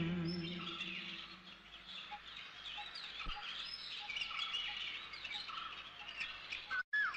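Small birds chirping: many short, quick chirps and whistled glides overlapping one another, with a held note of music fading out in the first second.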